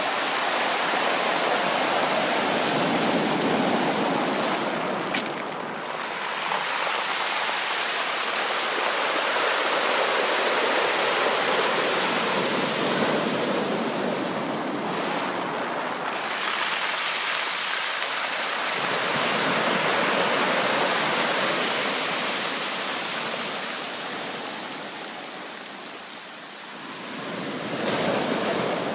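Ocean waves breaking and washing on a beach: a continuous surf hiss that swells and falls back every few seconds, easing off late on and building again with a new wave near the end.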